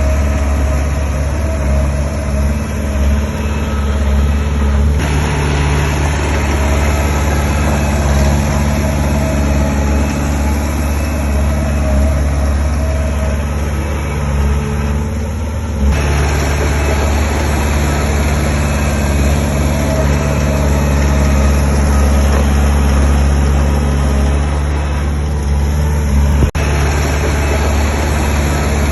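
Heavy diesel engine of earthmoving equipment running steadily under work, with a louder rattling mechanical noise joining about five seconds in, easing off, and coming back sharply about sixteen seconds in. There is a single sharp click near the end.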